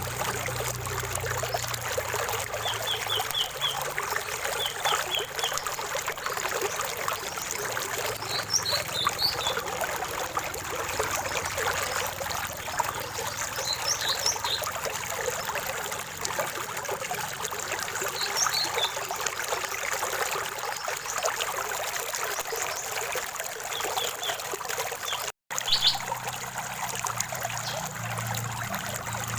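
Small stream trickling and babbling steadily, with short high bird chirps in small groups every few seconds. The sound cuts out for an instant about 25 seconds in.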